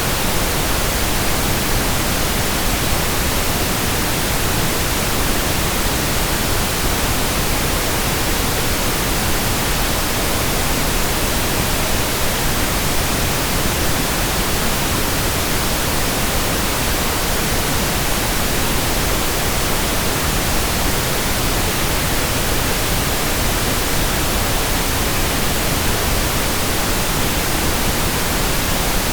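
Steady synthetic pink noise: an even, unbroken hiss spread across the whole range, with no changes or events.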